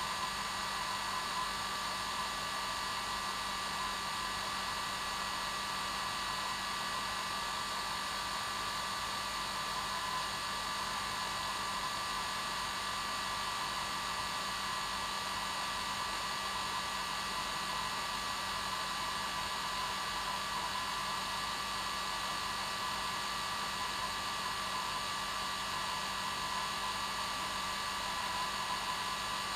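Hair dryer running steadily, a constant rushing blow of air with a steady motor hum and whine.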